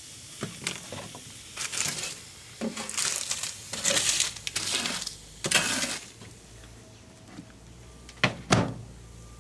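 Objects being handled: irregular scraping, crinkling and clattering for about six seconds, then a faint low hum sets in and two sharp knocks follow near the end.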